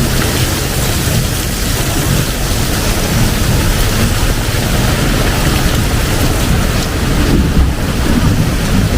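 Heavy rain pouring steadily during a thunderstorm, a loud even hiss with a strong low rumble underneath.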